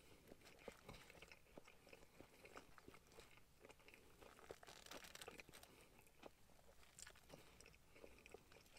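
A person faintly chewing a mouthful of KFC fried chicken and chips, with many soft crunches and small clicks.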